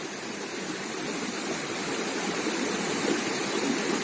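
Steady rush of flowing river water, a constant noise that swells a little over the first second or two.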